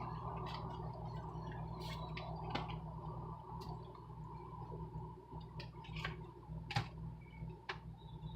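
Steady low hum of a car cabin on the move, with scattered light clicks and creaks that come more often in the second half.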